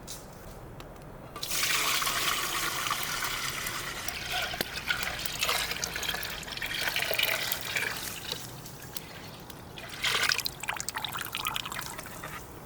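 Liquid poured in a stream and splashing for several seconds, then a second, shorter pour near the end.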